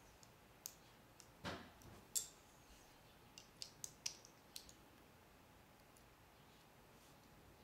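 Faint clicks and taps of Lego plastic pieces being handled and pressed together, about a dozen scattered through the first five seconds.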